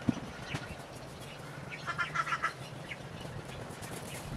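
A thump just at the start, then a bird calling in a quick run of short notes about two seconds in.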